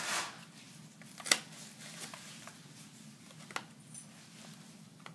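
Plastic blister packaging of a die-cast toy car being handled and pried open: faint rustling, a sharp plastic click about a second in and a smaller one past the middle.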